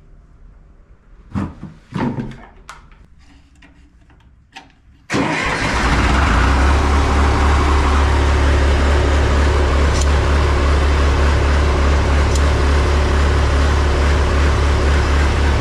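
A couple of short knocks, then about five seconds in the John Deere 1020 tractor's engine comes in suddenly and runs steadily and loudly.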